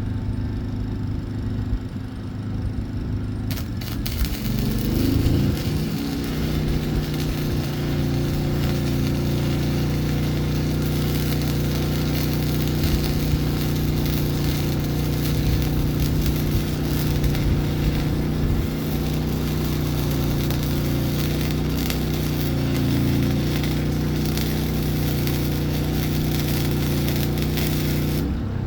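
Stick welder arc crackling and hissing on a steel-and-copper billet, striking about three and a half seconds in and running steadily until it cuts off near the end. Under it a portable generator's engine runs throughout, its hum shifting as the arc draws load.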